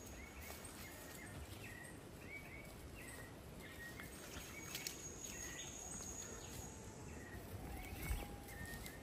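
Quiet rural outdoor ambience in which a bird repeats a short, slightly rising call about twice a second. A faint high steady tone runs for a couple of seconds in the middle, and there is a soft thump about eight seconds in.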